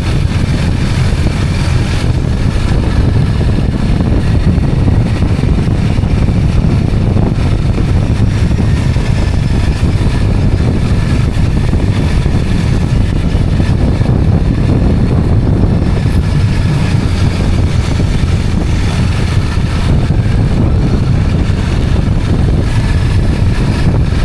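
Steady rumble of a two-wheeler ridden along a road, its engine mixed with wind buffeting the microphone.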